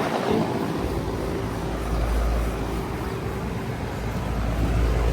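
Running central air-conditioner condenser unit: the fan and compressor make a steady low hum with a few steady tones over it.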